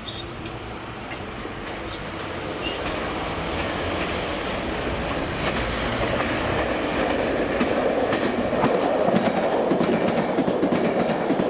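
CP Alfa Pendular series 4000 electric tilting train approaching and running past, growing steadily louder, its wheels clattering over the rail joints as the carriages go by in the later seconds.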